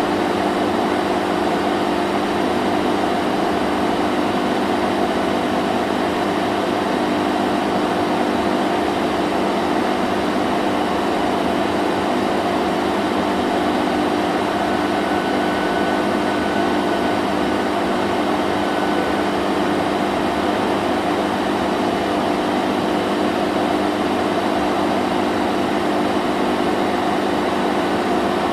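Vacuum cleaner running steadily: a constant motor hum and rush of air, with no change in pitch or level.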